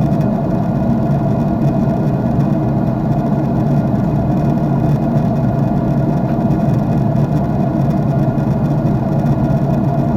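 Jet airliner cabin noise heard from a window seat in cruise: a steady, loud rush from the engines and airflow, strongest in the low and middle range, with a few faint steady tones and no change.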